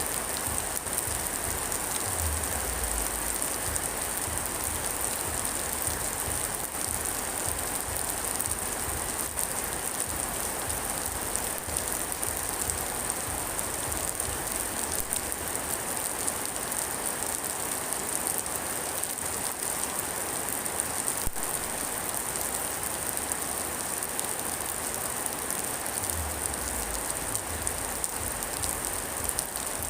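Steady rain falling, a dense even patter of drops, with a brief low rumble twice, about two seconds in and near the end.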